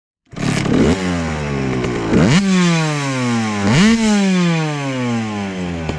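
Beta 300RR two-stroke dirt bike engine being revved: it starts about a third of a second in and is blipped up again twice, each time the pitch rising quickly and then sagging slowly back down.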